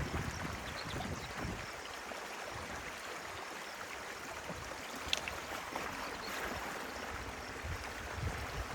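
Stream water running steadily through and around a beaver dam, with one faint click about five seconds in.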